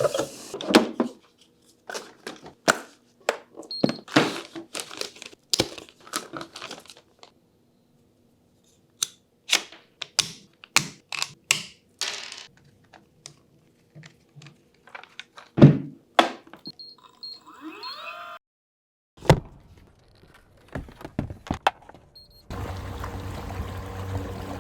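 A run of sharp clicks, snaps and knocks in short clusters with silent gaps between them, as a kayak motor and its adhesive mount are fitted, with a few short high beeps. Near the end a steady rush of water sets in.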